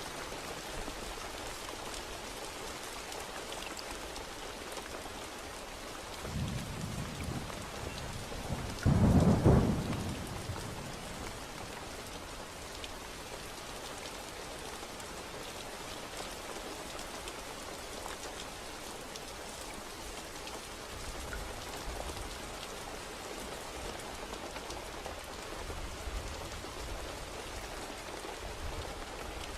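Steady rain falling, with thunder: a low rumble about six seconds in, then a loud thunderclap about nine seconds in that rolls away over the next few seconds, and a fainter rumble near the end.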